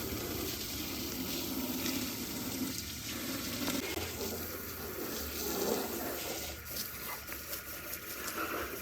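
A jet of water spraying steadily into a tractor's tyre and rim to wash off caked mud.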